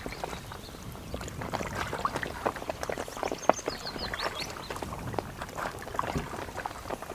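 Kayak paddle dipping into loch water, with many small irregular splashes, drips and knocks.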